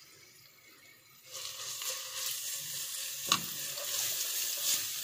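Ginger-garlic paste frying in hot ghee, a steady sizzle that starts about a second in, as it is stirred around the pan with a silicone spatula. One sharp click about three seconds in.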